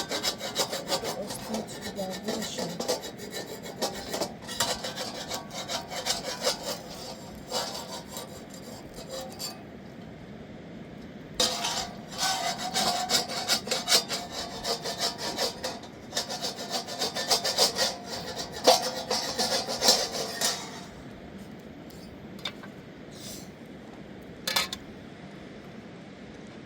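Rapid, continuous scraping strokes in two long bouts, with a short pause between them, followed by a few scattered clicks.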